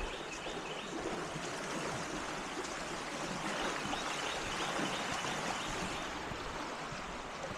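A river swollen by floodwater after heavy rain, making a steady rush of water.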